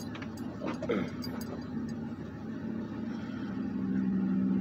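2007 Ford Crown Victoria Police Interceptor's 4.6-litre V8 idling, heard from inside the cabin, with a few light clicks in the first second and a half; the engine note grows a little louder and steadier over the last second. The engine has a cylinder 3 misfire (code P0303).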